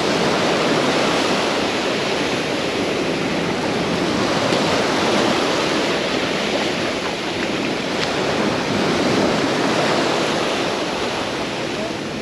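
Sea waves breaking and washing up the beach: a steady rushing hiss that swells and eases every few seconds.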